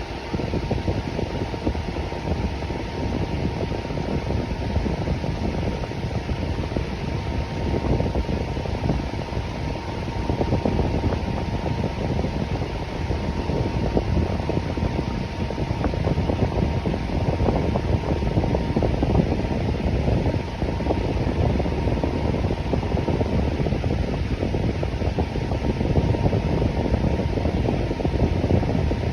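Electric fan running steadily: a continuous whoosh of moving air, strongest in the low range, with a faint steady hum.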